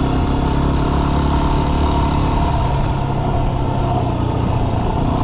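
Yamaha WR250R dual-sport motorcycle's single-cylinder four-stroke engine running at a steady speed while riding, with wind and road noise.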